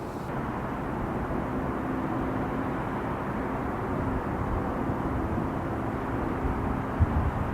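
Jet airliner engine noise: a steady rumble with a faint hum, slowly growing louder. Wind buffets the microphone near the end.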